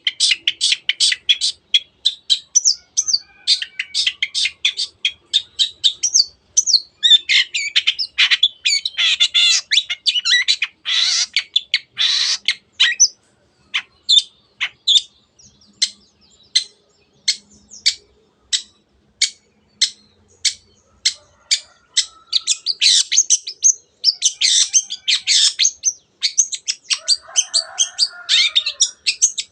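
Long-tailed shrike (cendet) singing: rapid runs of sharp, high repeated notes, about four or five a second, broken by denser scratchy chattering passages.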